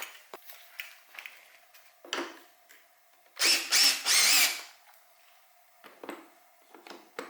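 A cordless drill/driver whirs for about a second, about halfway through, with a wavering pitch, most likely spinning out a bolt from the bike's plastics. It is surrounded by small clicks and knocks of parts being handled.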